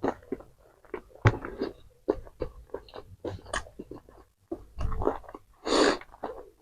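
Close-miked eating: a person chewing and biting into crispy fried fast food, with irregular crunches, clicks and mouth noises, and a short breathy rush of noise near the end.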